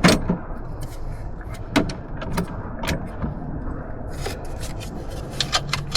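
Irregular metallic clicks and clinks of hand tools: a wrench and sockets being picked up and tried on a fastener. The sharpest knock comes right at the start, with a quick cluster of clicks near the end.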